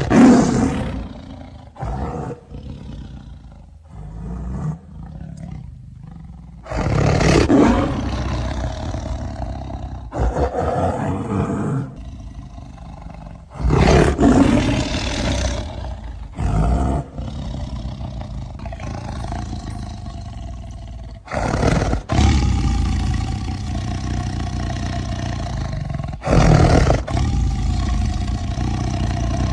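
Smilodon (sabre-toothed cat) sound effect built from big-cat roars and growls: a string of loud roars, each starting suddenly, with a low rumbling growl between them.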